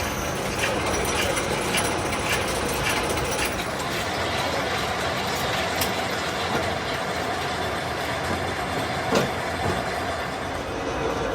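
Workshop machinery running steadily, with an even ticking about twice a second over the first few seconds and one sharp click near the end.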